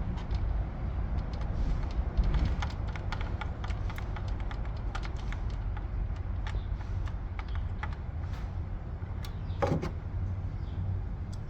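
Scattered light clicks, taps and small metallic rattles of hand tools and engine parts being handled, with a brief scrape about ten seconds in, over a steady low rumble.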